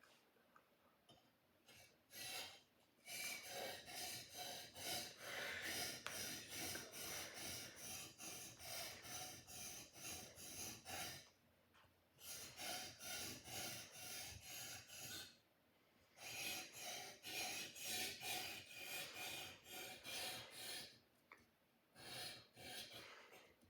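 Sword blade being sharpened: quick, repeated rasping strokes of steel against an abrasive, coming in runs of several seconds with brief pauses between them.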